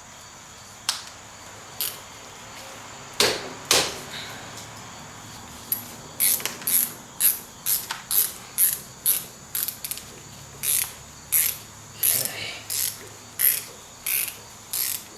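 Hand ratchet wrench clicking as it undoes the nuts holding a front suspension cross member to the chassis. A few separate clicks come first, then from about six seconds in a steady run of about two clicks a second.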